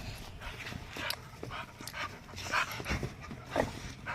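American bully puppy vocalising in a string of short, irregular sounds, the loudest about two and a half and three and a half seconds in.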